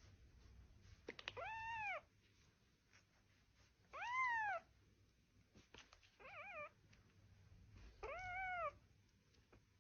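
A domestic cat meowing four times, about two seconds apart, each call rising and then falling in pitch. The third call is shorter and wavers.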